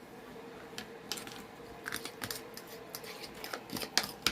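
Light clicks and scrapes of a utensil against a bowl while cornbread batter is mixed, sparse at first and coming faster and sharper toward the end, over a faint steady hum.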